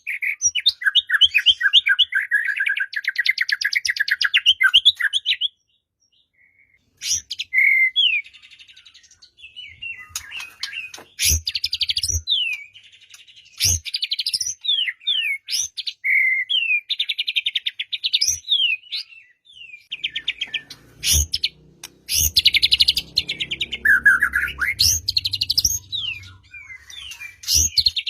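White-rumped shama singing a loud, varied song of rapid chattering trills and sliding whistles. It stops for about a second and a half around five seconds in. A few sharp knocks sound along the way.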